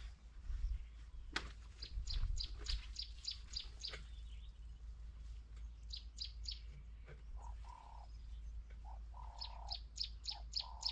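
A bird repeating a rapid series of short, high chirps, about four a second, in runs with brief pauses. From about seven seconds in, a lower call of short repeated notes joins it. A couple of sharp knocks come in the first half.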